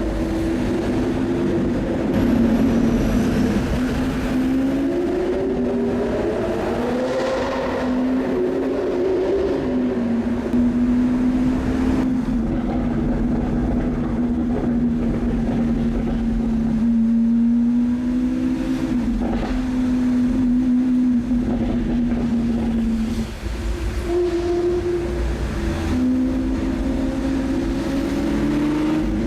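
Lamborghini Aventador SV's V12 engine heard from inside the car while driving, its pitch climbing and easing back several times, with a brief drop in level about three-quarters of the way through.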